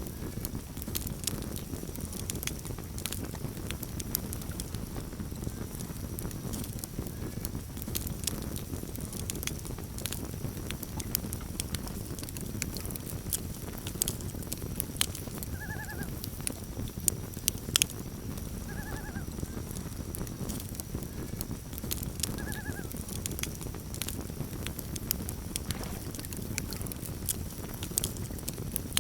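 Campfire crackling with frequent sharp pops over a steady low rumble of burning. Three short wavering calls of a common loon come about a second or more apart past the middle.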